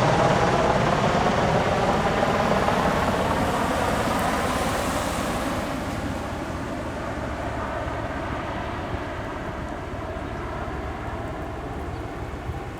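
A USAF CV-22B Osprey tiltrotor's rotors and turboshaft engines, a steady thrumming din with a faint hum in it that grows steadily fainter as the aircraft draws away.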